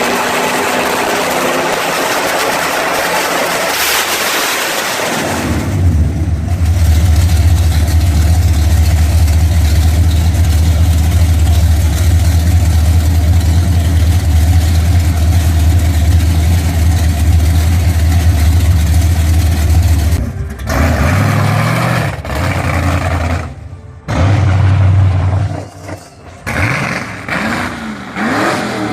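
A car engine starts about five seconds in and runs with a steady low drone. After a few abrupt breaks it is revved near the end, its pitch rising and falling.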